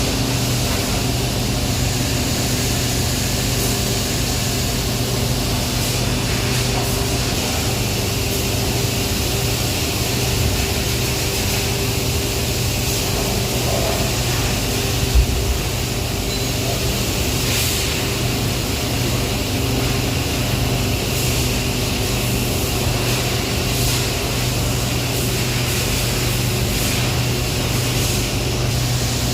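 Heavy power-plant machinery running with a steady, unchanging hum and a hiss over it, and a single short thump about halfway through.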